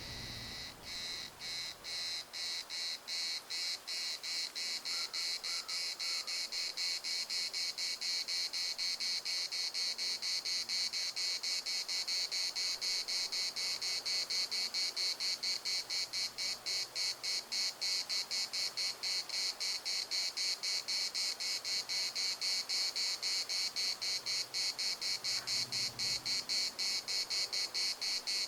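A cicada singing, a high buzzing song pulsed at about three pulses a second; it starts abruptly and swells in loudness over the first several seconds, then holds steady.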